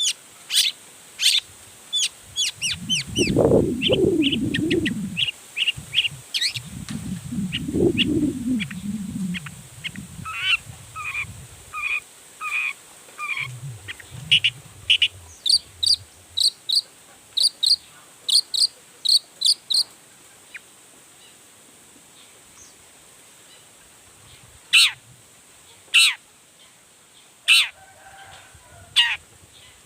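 Long-tailed shrike (cendet) singing a busy, varied song of sharp chirps and runs of repeated short notes, which thin out to single sharp calls about a second apart near the end. A low rumbling noise comes twice in the first ten seconds.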